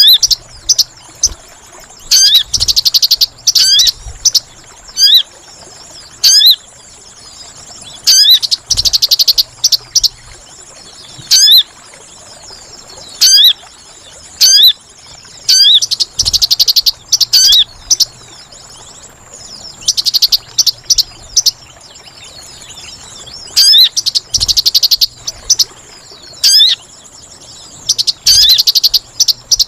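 Sogon bird calls played as a trapping lure: loud, sharp, sweeping call notes, repeated irregularly and broken by bursts of rapid chattering trills about a second long, over a faint steady high-pitched drone.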